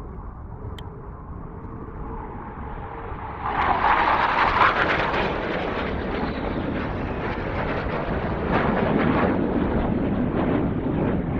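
Low-flying military jet passing: its engine noise swells over the first few seconds, jumps sharply louder about three and a half seconds in, and stays loud to the end.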